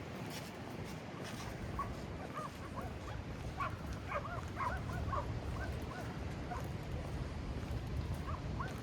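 A dog whining and yipping in a quick run of short, high cries, thickest in the middle, over a steady low background rumble.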